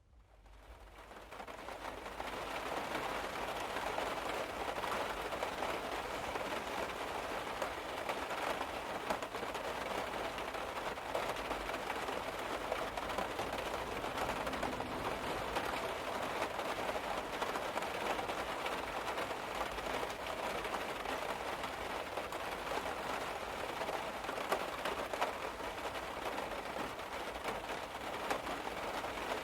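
Rain pattering steadily on a car's roof, a dense even patter that fades in over the first couple of seconds.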